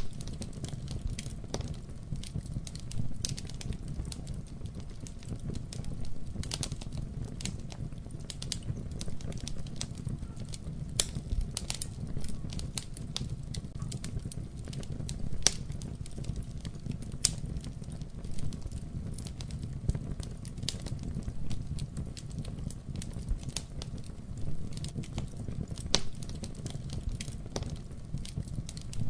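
Wood fire crackling in a fireplace: a steady low rumble of flame with frequent, irregular sharp pops and snaps.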